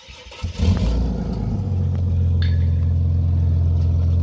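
Ford AU Falcon engine starting about half a second in, then settling into a steady idle.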